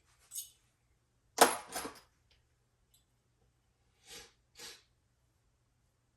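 A person with a head cold: a sharp sneeze-like burst about a second and a half in, then two short sniffs around four seconds in.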